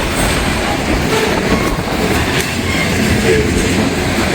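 Long freight train of loaded and mixed cars rolling steadily past at close range, with heavy wind buffeting the microphone.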